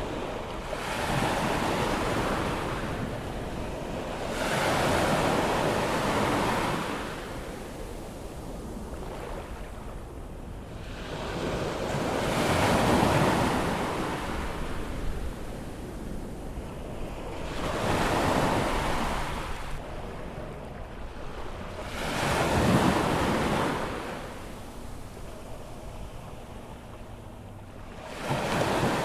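Ocean waves breaking on a sandy beach as the tide comes in, each wash swelling and fading every few seconds, five or six times over, with some wind on the microphone.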